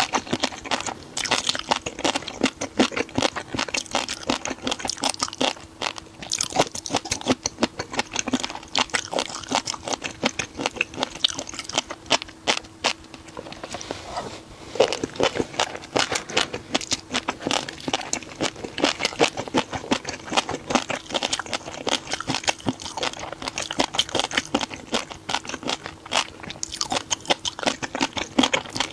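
Person chewing crunchy seafood close to the microphone: rapid, dense crunching that runs on almost without a break, with a faint steady hum underneath.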